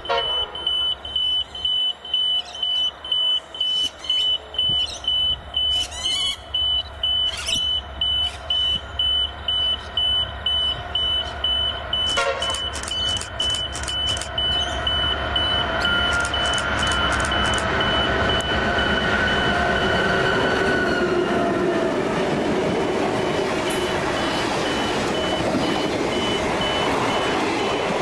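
High electronic warning beeps, about two a second, fade out around halfway through. Meanwhile a diesel-hauled passenger train approaches, and the rumble of its locomotive engines and wheels builds and stays steady as the carriages pass near the end.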